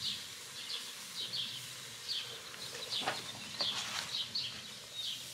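Small birds chirping repeatedly in the background, a short high chirp roughly every half second. A few light clicks and knocks come around the middle.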